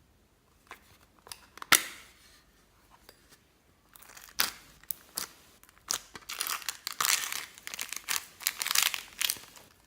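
Slime being squished and stretched by hand, making sticky crackling and popping sounds. There is one sharp pop a little under two seconds in, and denser, louder crackling from about four seconds on.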